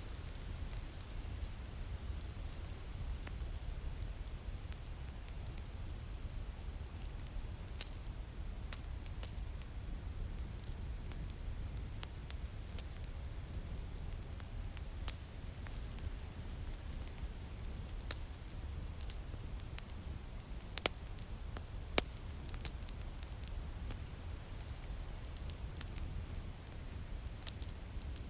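Wood fire crackling with scattered sharp pops, a few louder ones near the middle, over a steady low rumble of winter wind.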